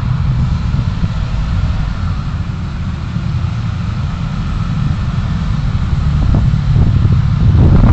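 Vehicle driving on a city road, heard through a dashcam: a steady low road rumble with wind noise, growing louder over the last few seconds.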